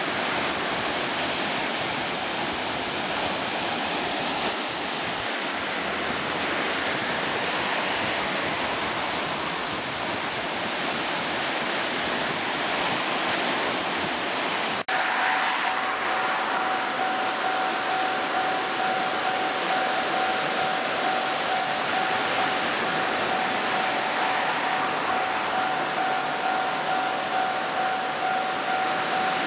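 Steady rush of surf and wind noise. About halfway in there is a brief break, after which a steady high hum sits over the rush.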